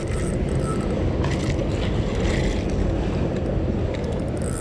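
A steady low rumble of noise with no clear pitch.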